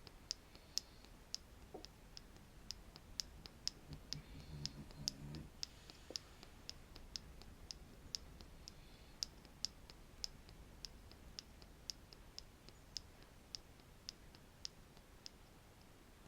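Light, sharp taps of a wooden stick against the microphone or a surface, in an even rhythm of about two taps a second.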